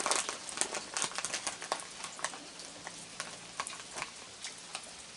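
Rain pattering and dripping: irregular sharp drips over a light hiss, thicker in the first couple of seconds and then sparser.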